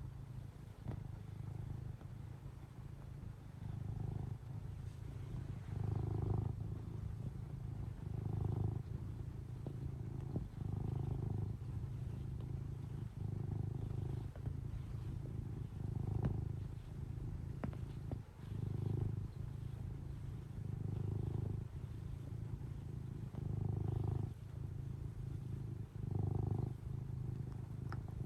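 Domestic cat purring close up: a steady low purr that swells and eases with each breath, about every two and a half seconds.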